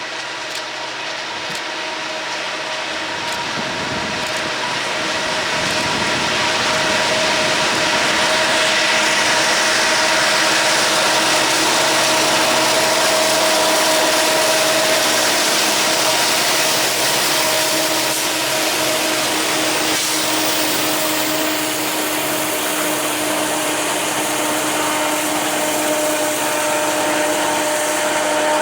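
Diesel locomotives of a freight train running past with a steady engine drone and a few held tones. It grows louder over the first several seconds and stays loud.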